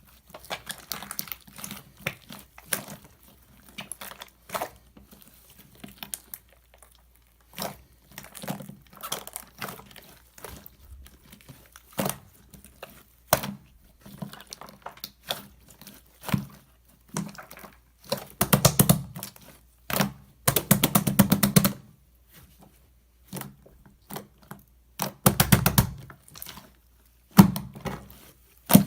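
Hands squishing, folding and pressing clay-mixed slime: irregular sticky clicks and crackles, with denser runs of fast crackling past the middle and again later on.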